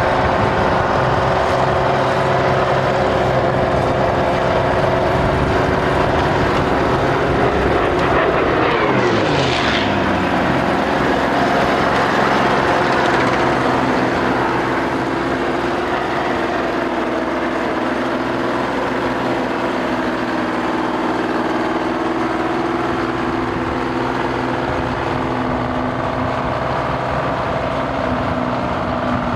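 A large engine running steadily. About nine seconds in, a tone sweeps steeply down in pitch, and the sound drops a little in level around fourteen seconds.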